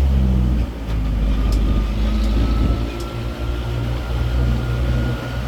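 Tourist road train's engine running steadily as it drives, with a thin steady whine above the engine hum and a few light clicks.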